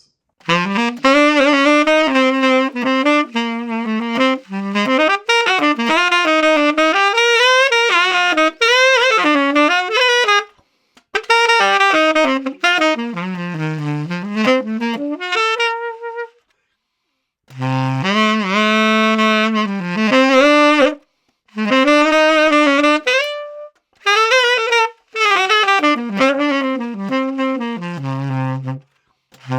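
Conn 10M tenor saxophone with a SYOS mouthpiece and a Boston Sax Shop Silver Box reed (thicker tip, medium heart, a cut meant for a brighter, more projecting tone) playing unaccompanied jazz phrases, recorded dry. The lines come in several runs split by breath pauses, the longest about 16 seconds in.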